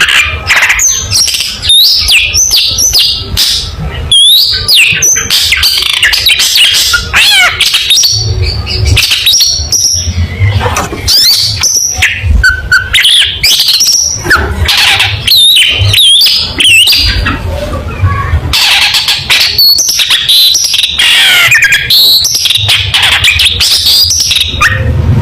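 Long-tailed shrike (cendet) singing loudly and without pause: a dense run of rapid chattering notes, sharp whistled glides and harsh squawking calls, over a low hum.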